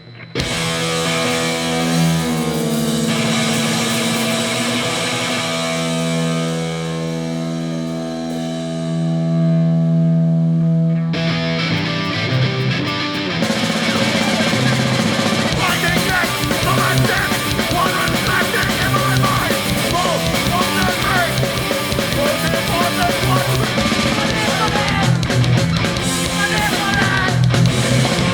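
Hardcore punk band playing live through a PA: held chords ring out for about the first ten seconds, then drums and the full band come in about eleven seconds in and keep playing.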